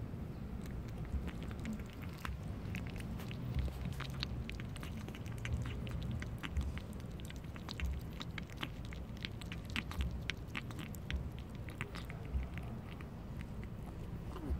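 A mackerel tabby kitten eating: a run of quick, irregular chewing clicks, several a second, over a low steady rumble.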